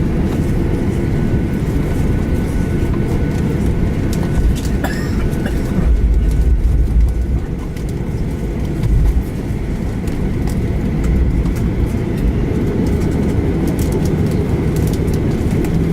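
Cabin noise aboard a Boeing 737-800: a steady low rumble from its CFM56 engines and the airframe, with heavier low thumps about six and nine seconds in.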